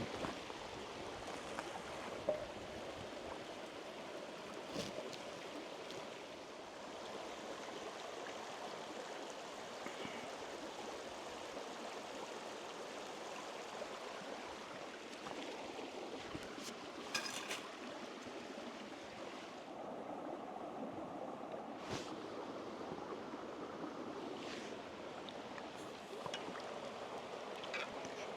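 Stream or river water flowing steadily, with a few faint clicks scattered over it.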